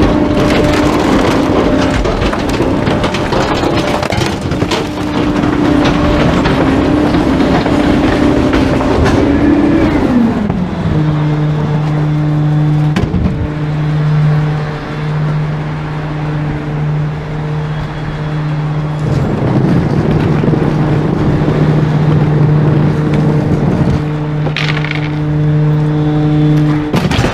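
Trash truck engine running at a raised speed with crackling noise over it, then dropping to a lower, steady speed about ten seconds in, and rising again at the very end.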